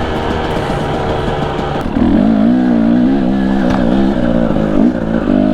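Husqvarna TE250i two-stroke dirt bike engine running at low revs under a working throttle. About two seconds in it gets louder, and its pitch wavers up and down as the throttle is feathered.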